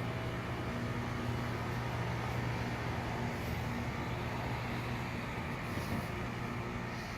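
A car engine running steadily at idle, a constant low hum with no revving.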